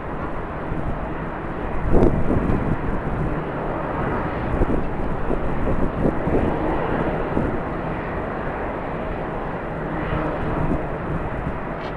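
Jet airliner engines making a steady broad rushing noise, with gusts of strong wind buffeting the microphone, the strongest about two seconds in.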